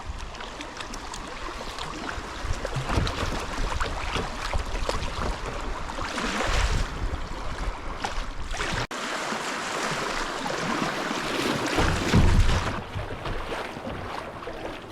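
Water rushing and splashing around a kayak on a small river, with low rumbles from wind on the microphone. The sound breaks off sharply for an instant about nine seconds in.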